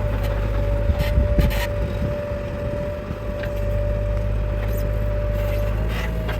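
Heavy diesel machinery engine running steadily, with a constant high whine over the low engine rumble. A few short clicks and knocks come about a second in.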